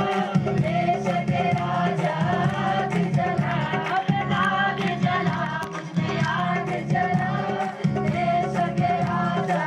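Christian worship song being sung, with voices over instrumental accompaniment and a steady percussion beat.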